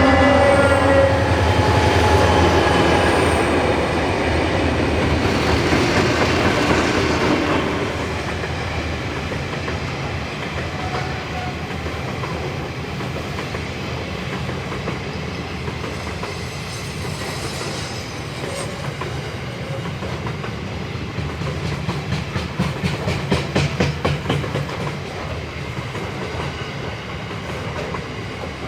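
A train rolls past on the standard gauge mainline. A diesel locomotive horn note fades out in the first second, then the rumble of the passing consist continues, with wheels clicking rhythmically over rail joints, heaviest about three-quarters of the way through.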